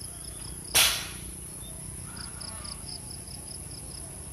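Insects chirping: a high pulsed chirp about four times a second over a continuous high-pitched buzz, with the chirps coming in about two seconds in. A single brief, loud noise burst about a second in is the loudest sound.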